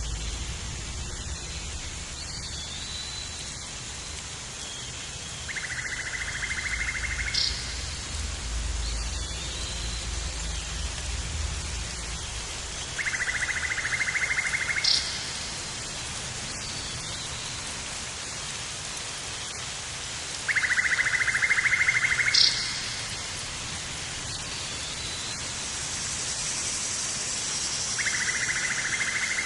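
A steady rain-like hiss, over which an animal call repeats about every seven and a half seconds: a rapid buzzy trill of about a second and a half, ending in a sharp high note.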